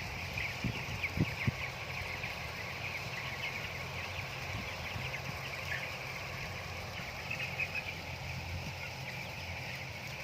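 A flock of broiler chickens peeping continuously, many high calls overlapping. A few soft knocks come near the start.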